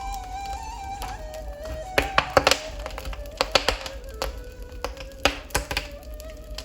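Wood fire crackling in a fireplace, with frequent sharp pops, the loudest clustered about two seconds in and again near five seconds. Over it a ney flute plays a slow melody of long held notes, stepping gradually downward.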